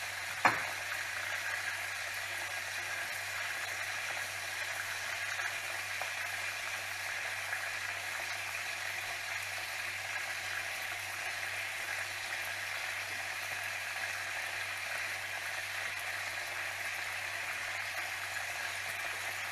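Chicken frying in hot oil: a steady sizzle, with one short knock about half a second in.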